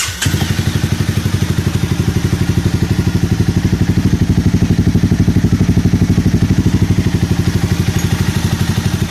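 Honda CBR300R's single-cylinder engine idling steadily with an even pulse through an Akrapovič slip-on exhaust. The exhaust is muffled by two dB-killer baffles, one at the pipe tip and one at the slip-on joint, giving a much quieter, softer note.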